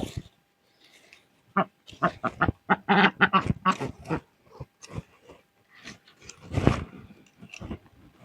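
An animal calling in a quick run of short, irregular calls, densest a couple of seconds in and again with one louder call near the end.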